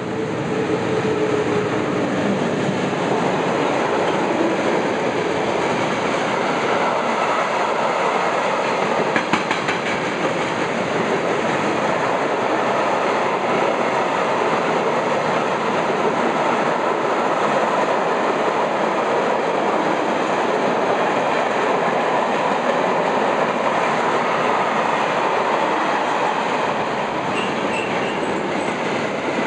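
Train running past on the rails: a loud, steady rumble of wheels on track, with a short run of rail-joint clicks about nine seconds in.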